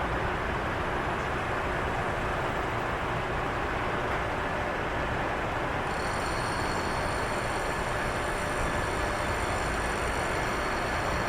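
Jet airliner engines running with a steady roar. About six seconds in, a high-pitched turbine whine joins it and holds.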